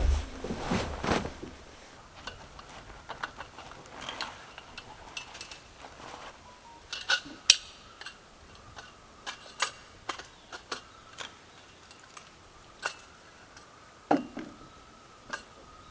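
Camping gear being handled: rustling at first, then scattered sharp clicks and light knocks of small hard pieces, irregularly spaced.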